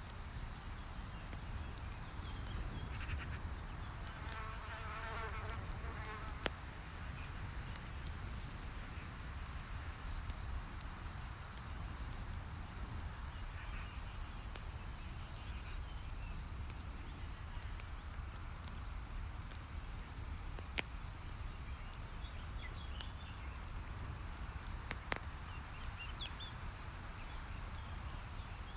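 Campfire burning with a steady low rumble and a few sharp crackling pops. A brief buzzing sound passes about four seconds in.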